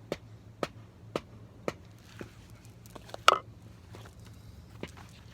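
Sharp knocks repeating evenly about twice a second, breaking off for a moment around a louder crunch about three seconds in, then resuming.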